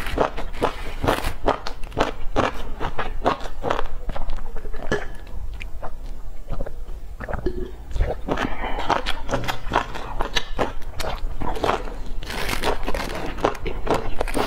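Close-miked chewing and biting of pan-fried stuffed flatbread: a dense run of crunches and wet mouth clicks.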